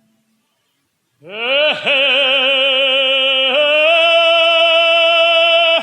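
A classically trained singer's voice, silent for about a second and then scooping up onto a long, loud held note with vibrato, stepping up to a higher note about halfway through before breaking off near the end.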